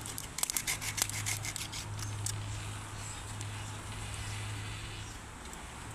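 A quick run of short scraping or rubbing strokes in the first couple of seconds, thinning out afterwards, over a steady low hum.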